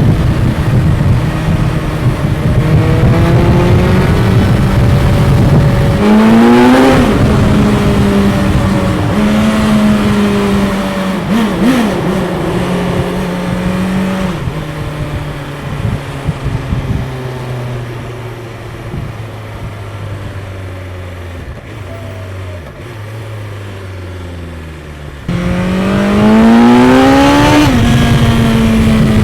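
BMW S 1000 XR's inline-four running through its stock exhaust under way: the engine pulls up and shifts a gear, then eases off with the revs stepping down through several lower gears. About 25 seconds in it opens up hard again, revs climbing steeply.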